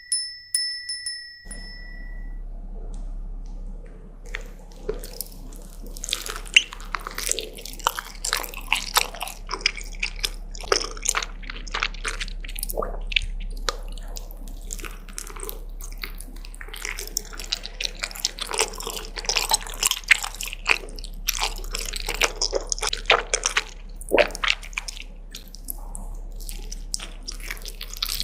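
Close-miked eating sounds: wet chewing, smacking and quick mouth clicks, dense and irregular, over a steady low hum. A short ringing chime sounds in the first two seconds.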